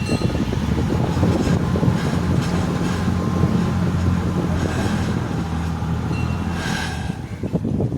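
Passenger ferry's engine running steadily under way, a low drone, with wind buffeting the microphone.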